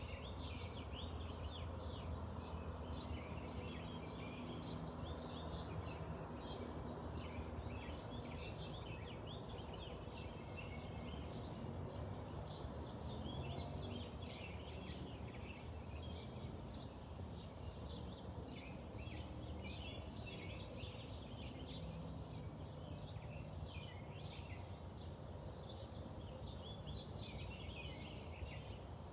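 Many small birds chirping and singing at once, a continuous outdoor birdsong chorus, over a steady low hum.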